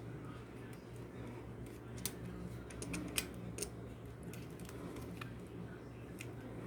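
Scattered light clicks and ticks, bunched about two to three and a half seconds in, over a steady low hum.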